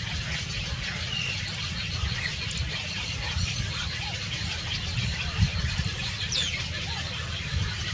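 Outdoor ambience with a few faint bird chirps and one falling whistled call about six seconds in, over a steady low rumble, with a brief thump a little before it.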